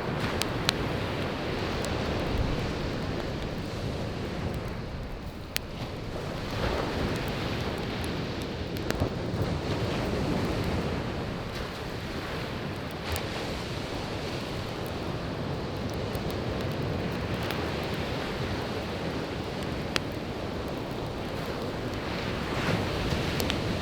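Waves breaking and washing on a beach, swelling and ebbing every few seconds, with a few sharp pops from a wood campfire burning close by.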